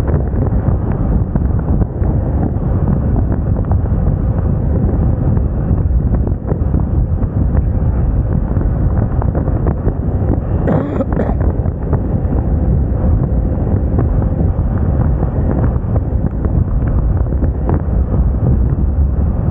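Wind buffeting hard on the microphone of a Moda Moca 110 scooter in motion, with the scooter's running and road noise underneath. A short, higher-pitched sound cuts through briefly about halfway through.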